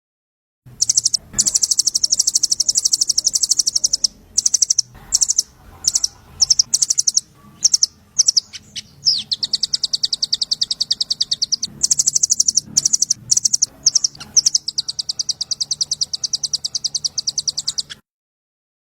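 Recorded song of a small songbird: long, rapid, high-pitched trills of fast-repeated notes, broken into shorter choppy phrases in the middle and cutting off suddenly near the end. It is a masteran tutor track of rattling 'trotol' trills used to teach caged magpie-robins.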